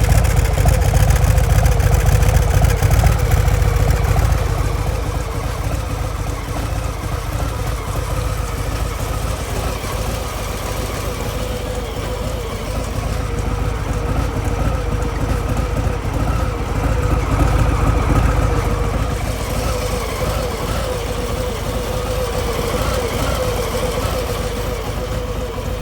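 Harley-Davidson Breakout's Milwaukee-Eight 114 V-twin running through its stock exhaust, a steady, fairly subdued engine note that is a little louder in the first few seconds.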